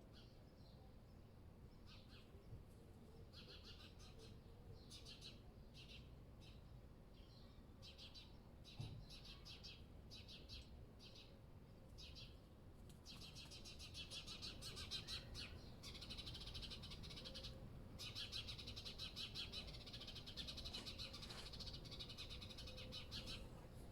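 Small songbirds chirping in short separate bursts, turning into dense, rapid twittering about halfway through, over a faint low rumble.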